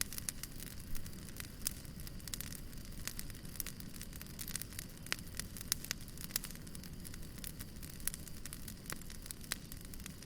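Wood fire burning with a steady low rumble and many irregular sharp crackles and pops.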